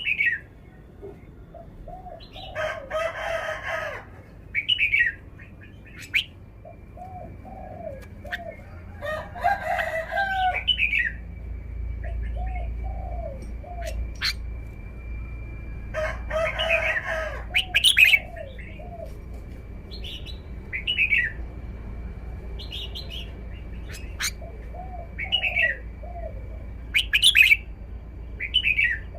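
Red-whiskered bulbul singing, short bright phrases repeated every second or two, with a few longer, fuller bursts of song. Lower, arched notes from another bird keep recurring beneath it.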